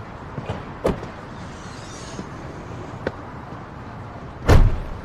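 Steady low rumble with a few sharp clicks and one heavy thump near the end.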